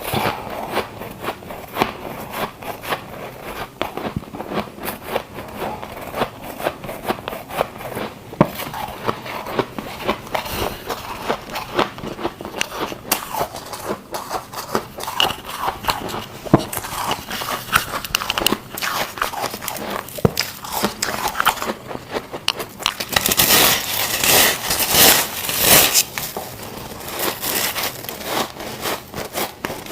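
Ice being bitten and chewed: a dense run of crunching and cracking, louder and harsher for a few seconds about 23 seconds in.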